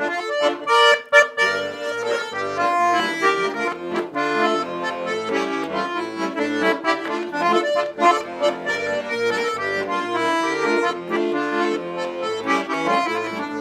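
Accordion playing an instrumental interlude between verses of a folk-style song: a quick melody over bass notes and chords.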